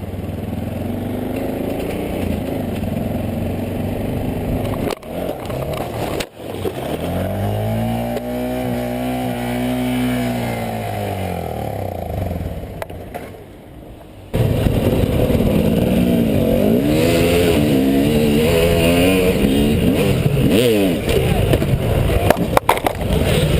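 Motorcycle engines across several abruptly cut clips. One engine revs up and then falls back. From about halfway through, a louder engine runs with revs rising and falling repeatedly over a rushing noise.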